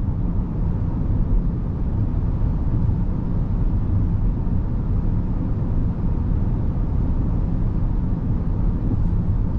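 Steady low road and tyre rumble inside the cabin of a 2023 Rivian R1S Quad Motor electric SUV while cruising. No engine is heard, only a faint steady hum from the drivetrain.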